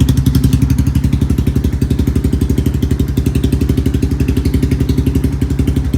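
Yamaha Wolverine 350 ATV's single-cylinder four-stroke engine idling through a DG exhaust with the baffles removed: a loud, steady beat of about a dozen exhaust pulses a second.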